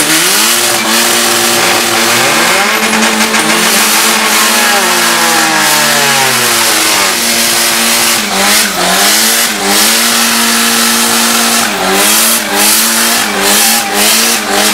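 Tuned car engine held on a two-step launch limiter: revs pinned at a steady pitch for seconds at a time, dropping and climbing again, while the tyres spin in a smoky burnout. From about eight seconds in, sharp exhaust pops and bangs break in.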